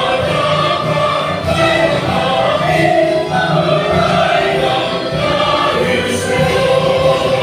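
A choir singing a Christian gospel song, held notes moving at a steady, unhurried pace.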